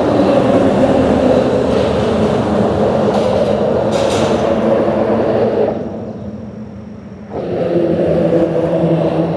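Steady rumble of vehicle traffic on a bridge. It eases for about a second and a half around six seconds in, then builds again at a lower pitch as another vehicle comes through.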